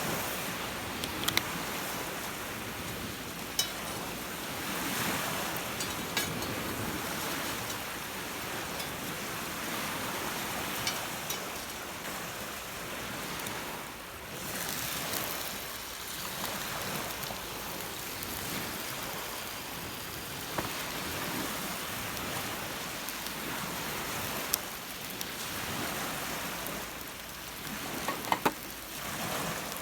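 Rough lake waves breaking on the shore close by, with wind, the wash swelling and easing every few seconds. A few sharp clicks stand out over it now and then.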